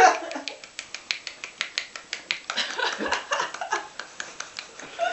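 One hand clapping: the fingers flap against the palm of the same hand, giving quick, evenly spaced slaps of about four or five a second.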